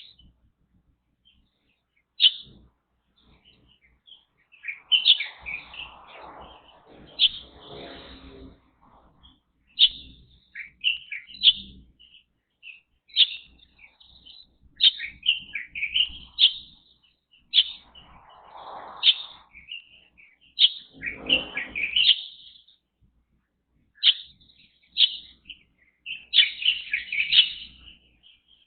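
Small songbirds chirping in short, high calls repeated every second or so, with a few lower, rougher sounds mixed in at times.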